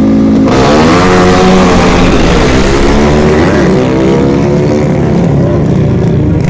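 Racing motorcycle engines running hard at a drag race, with a loud rush of engine noise starting about half a second in as a bike accelerates away. The engine pitch climbs and falls several times.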